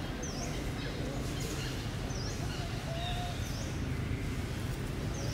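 A bird chirping, short high notes about once a second, over a steady low rumble.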